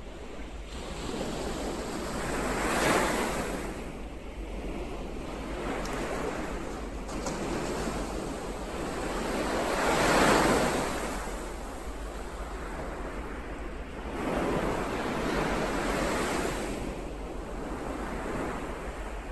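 Ocean waves washing in: three slow surges of surf, each rising and falling away, the middle one the loudest.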